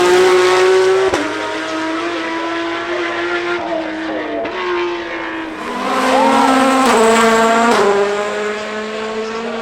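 Racing car engine running hard at high revs. Its pitch holds steady and then steps at each gear change, and it grows louder twice as cars pass.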